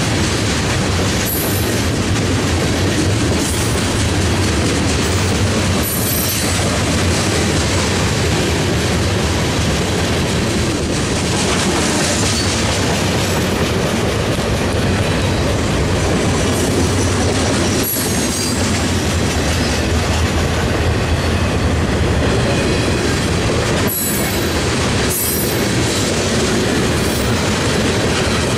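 Freight cars (tank cars, covered hoppers, an autorack) rolling past at track level: a steady loud rumble of wheels on rail, with sharp clacks as wheels cross joints and a few brief high wheel squeals.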